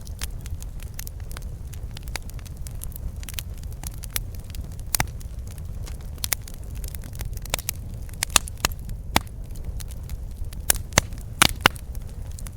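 Wood campfire burning, crackling with irregular sharp snaps and pops over a steady low rumble. A run of louder pops comes near the end.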